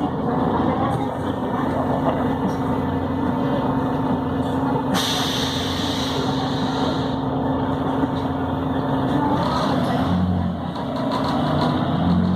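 Volvo B7RLE bus's diesel engine running steadily during the ride, with a held tone that shifts lower about ten seconds in as the engine note changes. A two-second burst of hissing air begins suddenly about five seconds in.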